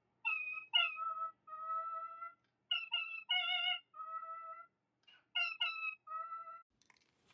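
Parrot whistling a short tune of clear, steady notes in three phrases, each a couple of short notes followed by a longer held note that sags slightly in pitch.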